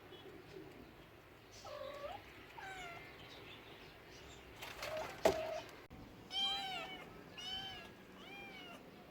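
A cat meowing: two short meows in the first few seconds, a sharp knock a little past halfway, then three more meows about a second apart.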